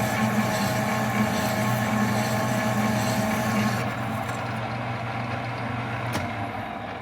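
Metal lathe running, cutting into a PTO yoke, with a steady hum under the hiss of the cut. The hiss stops about four seconds in, a sharp click follows a couple of seconds later, and the lathe then begins to run down.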